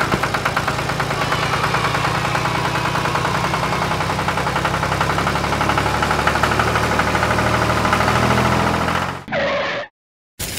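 Tractor engine running with a steady, rapid chug. It cuts off abruptly about nine seconds in.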